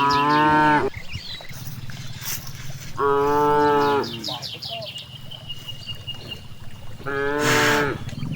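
Cows mooing: three separate calls of about a second each, a few seconds apart.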